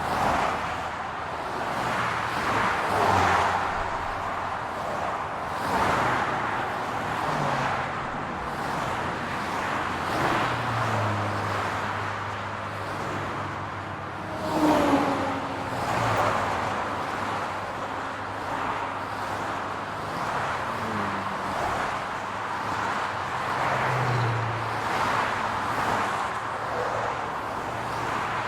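Road traffic: a steady hum of car engines and tyres, with cars passing in swells every few seconds. A louder one goes by about halfway through.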